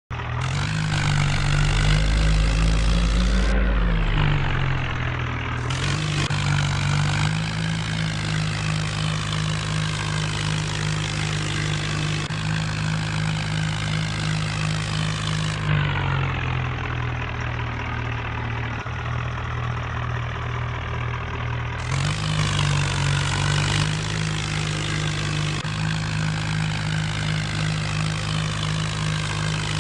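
New Holland tractor's diesel engine running steadily under load, its pitch rising briefly a few seconds in and dipping and recovering a few more times.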